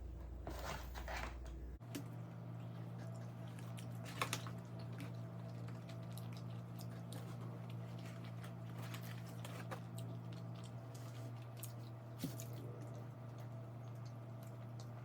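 A person eating close to the microphone: chewing and biting with a few sharp clicks. Underneath is a steady low hum, which changes about two seconds in.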